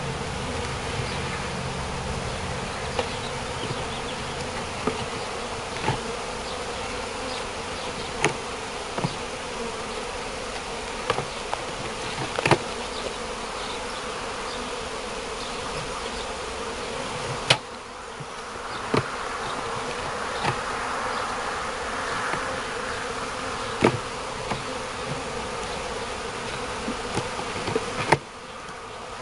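A swarm of honeybees buzzing steadily around an open hive box, with a scattering of sharp clicks over the buzz.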